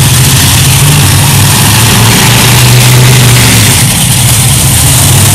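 Monster truck engine running loud, its pitch shifting up and down a little as the throttle changes.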